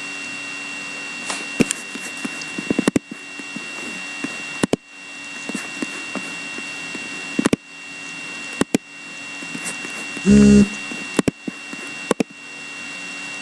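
Steady electrical hum with a faint high whine, broken by scattered sharp clicks and knocks. A short, loud, low pitched sound comes about ten seconds in.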